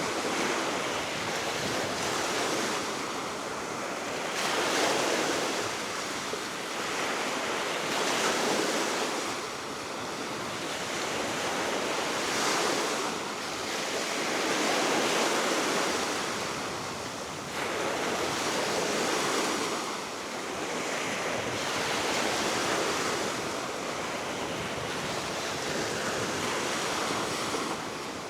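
Baltic Sea waves washing onto the shore, swelling and fading every few seconds, with a steady wind and some wind buffeting on the microphone.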